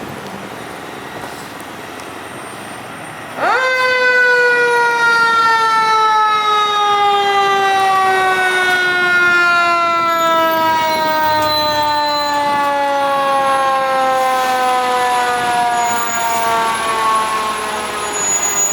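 Fire engine's siren winding up sharply about three seconds in, then a single long, slowly falling tone as it winds down.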